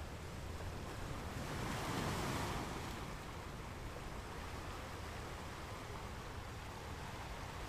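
Wind rushing over the microphone, a fairly faint steady hiss that swells briefly about two seconds in.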